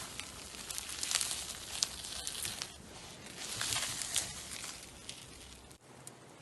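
Slime being worked and pressed, making crackly, crinkling sounds with sharp little pops, in two spells. It goes quieter for the last second or two.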